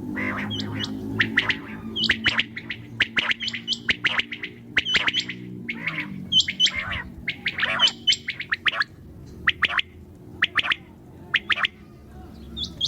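Quail calling: a rapid, irregular run of short sharp chirps, some ending in a higher hooked note. A low steady hum sits underneath and fades about halfway through.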